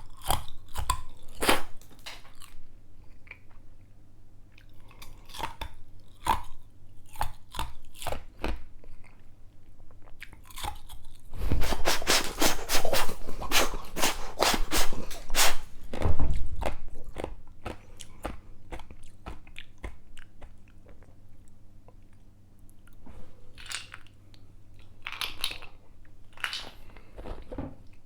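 Ice being chewed close to the microphone: scattered crunches and clicks, with a dense, loud run of rapid crunching for about five seconds in the middle. A faint steady low hum runs underneath.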